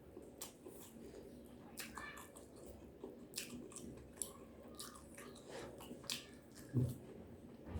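Close-up mouth sounds of a person eating: biting and chewing, with irregular crisp crunches and wet mouth clicks, and a louder low thud about seven seconds in.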